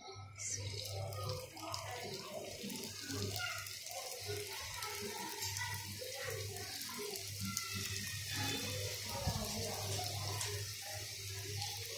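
Stuffed chicken kachoris sizzling as they deep-fry in hot oil in a frying pan. The sizzle starts about half a second in, as the first one goes into the oil, and carries on steadily while more are added. A low hum runs underneath.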